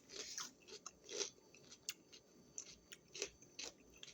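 Someone chewing a crunchy raw-vegetable snack: faint, irregular crunches about every half second.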